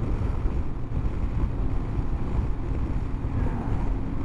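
Honda CB500X's parallel-twin engine running steadily at road speed, under a constant rush of riding wind on the microphone.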